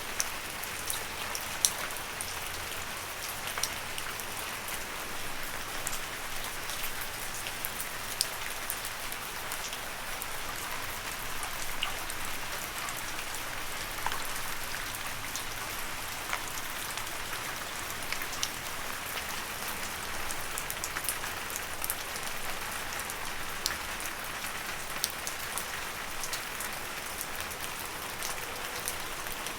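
Steady rain falling on leaves, with many separate drops tapping close by over a constant hiss.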